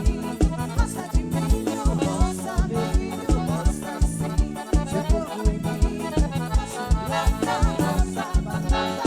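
Upbeat band music with an accordion carrying the melody over a fast, steady kick-drum beat of about four beats a second.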